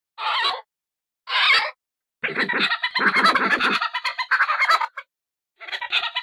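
Badger calling: two short separate calls, then a long run of rapid chattering pulses lasting nearly three seconds. After a brief pause, another chattering run begins near the end.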